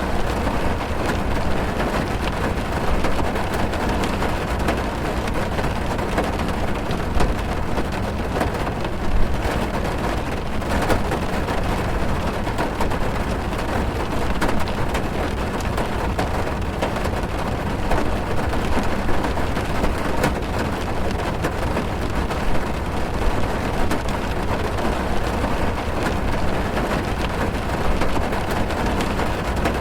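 Steady heavy rain drumming on a car's roof and windows, heard from inside the car, with a dense patter of drops.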